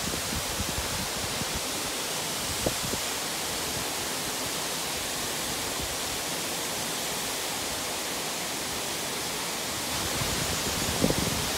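Waterfall rushing in a steady, dense roar of falling water, with a few brief low bumps near the end.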